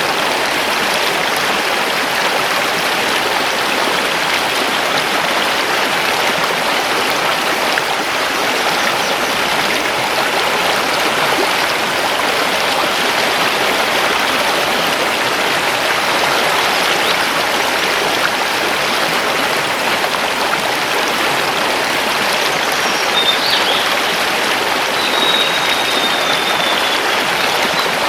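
A mountain river flowing over stones, a steady rushing. Near the end, a couple of short, high forest bird calls sound faintly over it.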